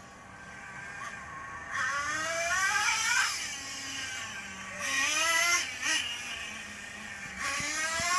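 RC truck's motor whining up in pitch as it accelerates, in three bursts: a long run-up about two seconds in, another in the middle, and a third near the end.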